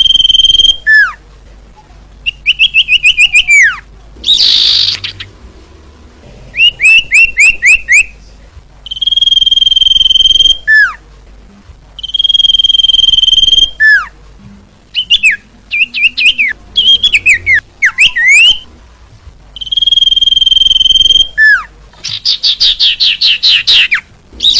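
Looping bird-lure recording of sirtu bird calls: a long, steady, high whistle held for about two seconds recurs several times, alternating with quick series of down-slurred chirps and a fast rattling trill near the end.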